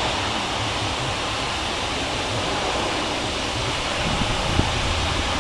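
Steady rushing background noise with no distinct events, with a few faint low knocks near the end.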